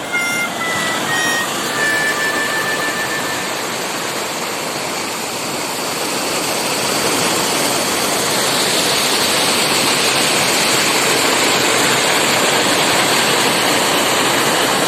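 River water rushing, a loud steady hiss that grows a little louder about halfway through. A few short high tones sound in the first couple of seconds.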